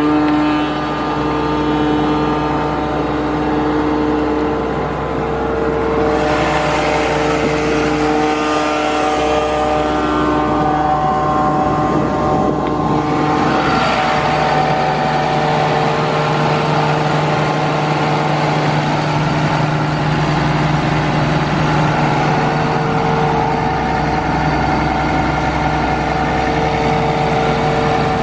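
Caterpillar C6.6 diesel engine of an Atlas Copco XAHS236CD portable air compressor running steadily at speed. A rushing noise rises over it from about six to ten seconds in and again briefly around fourteen seconds.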